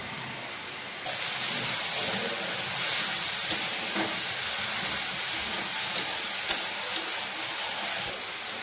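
Shredded cabbage, onion and carrot frying in oil in a kadai, a steady sizzle while it is stirred, with a few faint clicks of the steel ladle against the pan. The sizzle gets louder about a second in.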